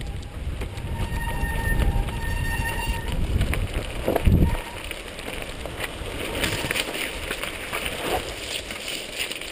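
Mountain bike ride heard from a GoPro mounted on the bike: wind rumbling on the microphone and the bike rattling over rough trail, with a heavy thump a little past four seconds in.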